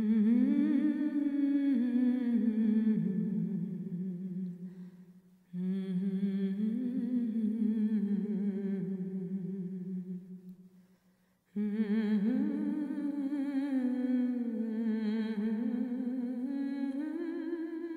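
A single voice humming a slow, wordless melody with a wavering pitch, in three long phrases with brief breaks between them.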